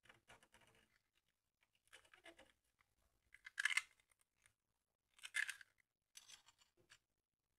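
Short bursts of scraping and scratching at the workbench, about five in all, the two loudest a little past the middle.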